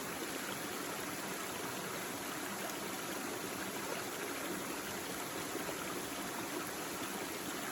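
A small stream babbling and trickling steadily over stones.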